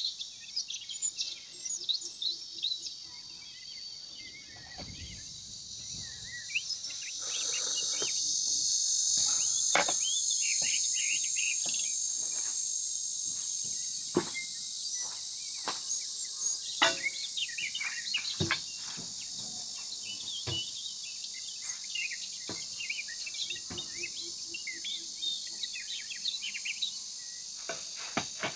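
A steady high-pitched insect drone that swells sharply about seven seconds in and then slowly eases, with birds chirping throughout. Scattered sharp knocks sound every second or two.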